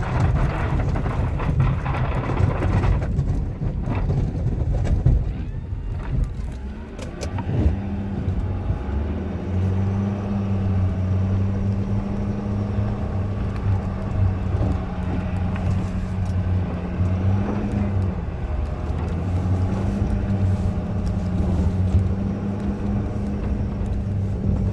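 Diesel pickup engine of a 2016 Ford F-250 6.7L Powerstroke, running under load while pushing heavy wet snow with its plow. The first few seconds are a rough rushing, scraping noise. After that the engine holds a steady low drone whose pitch rises and dips slightly.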